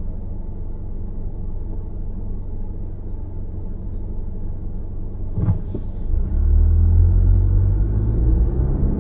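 A car driving, with a steady low road rumble. About five and a half seconds in there is a short knock, and then the rumble grows louder.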